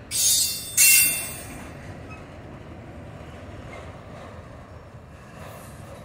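Freight train of autorack cars rolling past, with two short, loud bursts of high-pitched wheel squeal in the first second and a half, then a steady low rumble as the cars roll on.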